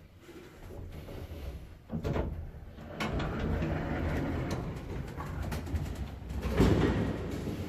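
Racing pigeons cooing and shuffling, with rustling and a few sharp clicks of handling; the sound builds up after about a second and is loudest near the end.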